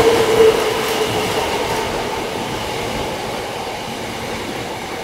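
Hankyu electric commuter train running along the platform: steady wheel-and-rail noise with a held squealing tone near the start that soon fades, the whole sound slowly dying away.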